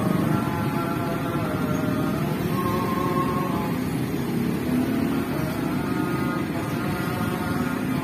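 Road traffic with motorcycle and car engines running past, several engine notes drifting up and down in pitch over a steady low rumble.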